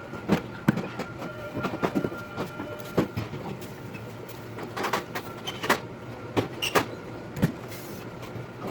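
Rapid, irregular clanks, clicks and knocks of grill parts being handled and fitted together during assembly, sped up four times.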